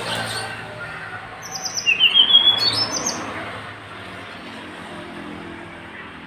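Tledekan gunung songbird singing a quick phrase of short, high chirping notes that step upward in pitch, about a second and a half in and lasting under two seconds.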